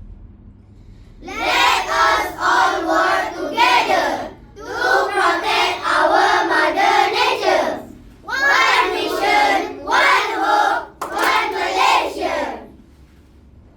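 A group of children chanting in unison in four long, loud phrases with short breaks between them, then falling quiet near the end.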